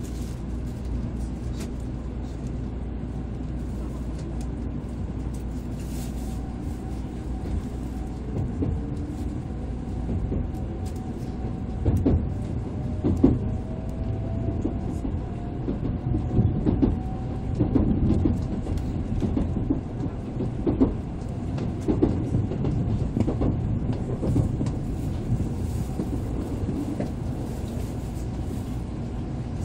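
Interior of an N700A Shinkansen car pulling away from a station: a steady rumble under a faint traction-motor whine that rises in pitch as the train picks up speed. In the middle there is a run of knocks and clunks from the wheels crossing the station points.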